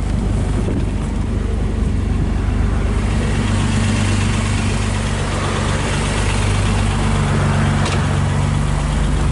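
1969 Mercedes-Benz 280SL's 2.8-litre inline-six idling steadily, growing a little louder near the end as the twin tailpipes are approached.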